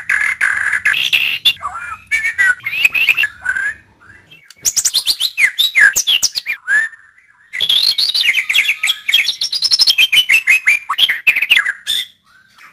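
White-rumped shama (murai batu) singing: phrases of sweeping whistles and fast chattering runs of notes, broken by two short pauses.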